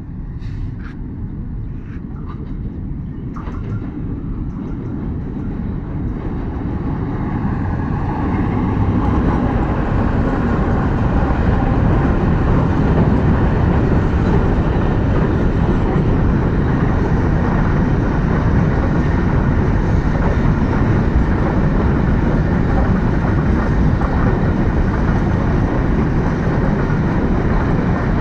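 A Pakistan Railways GEU-40 diesel-electric locomotive approaches fast at the head of a container freight train, growing louder over the first nine seconds or so. After that comes the steady rumble of the container wagons running past.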